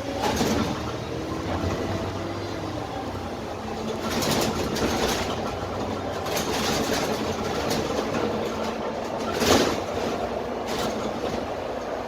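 Dennis Trident 12-metre double-decker bus under way, heard from the lower deck: its Cummins ISMe diesel engine and Voith automatic gearbox running, with the body rattling and several sharp knocks, the loudest about nine and a half seconds in.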